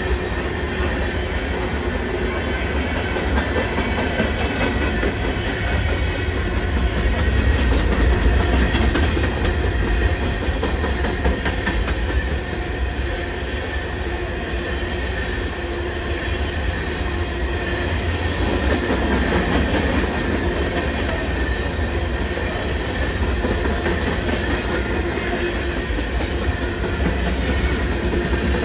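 Empty open-top gondola cars of a freight train rolling past close by: a steady low rumble of wheels and trucks, with a continuous clatter of wheels over the rail joints.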